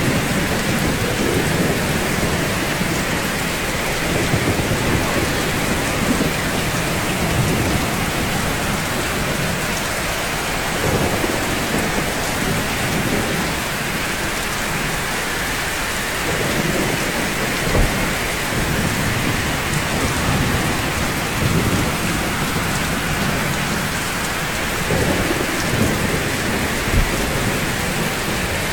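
Steady rain falling on rooftops, with low rumbles swelling and fading every few seconds and a couple of short sharp thumps.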